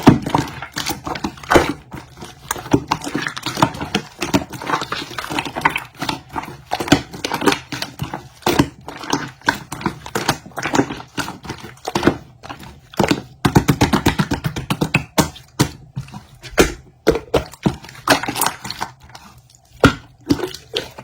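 Hands squishing, pressing and stretching glitter slime, making a quick, irregular run of wet clicks and pops, with a denser patch of popping about a third of the way in.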